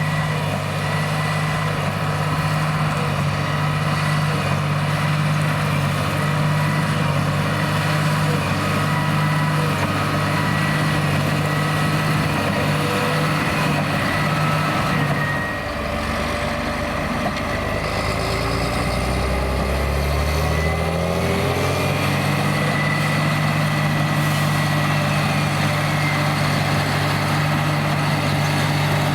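John Deere 8330 tractor's diesel engine running steadily under load while pulling a Krone BigPack square baler. About halfway through, the engine note drops, then climbs back up over several seconds to its steady pitch.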